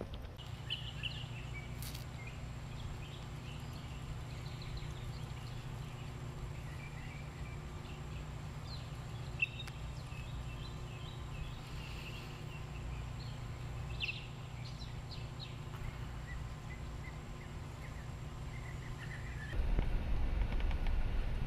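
Outdoor ambience: scattered bird chirps over a steady low hum. Near the end it cuts to the louder, deeper road noise of a car's cabin while driving.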